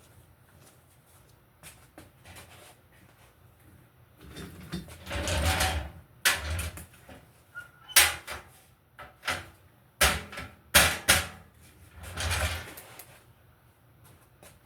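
A run of sharp knocks and clunks, with rustling and scraping between them, from about four seconds in until near the end.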